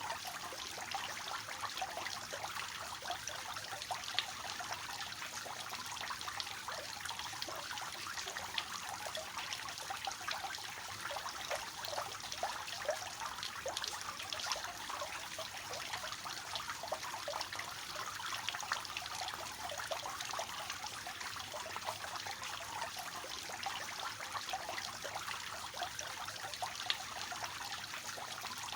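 Water falling steadily from a three-tiered cascading fountain, a continuous splashing trickle with many small droplet splashes.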